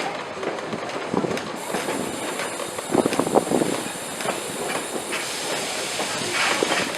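Passenger train rolling on the rails, with irregular wheel clacks and knocks, loudest about three seconds in. A steady high hiss joins about a second and a half in.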